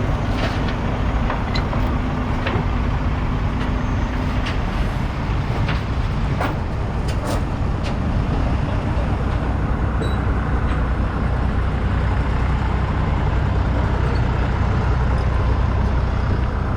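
Case IH Steiger 9370's 14-litre six-cylinder diesel engine running steadily with a deep, even drone. A few sharp clicks sound in the first half.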